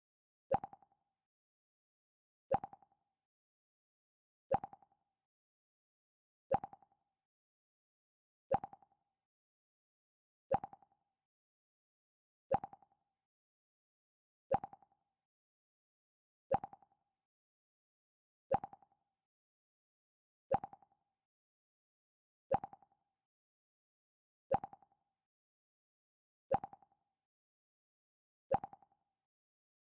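Mac OS X 'Pluck' sound effect: a short plucked tone that dies away quickly, repeated every two seconds, fifteen times, with silence between.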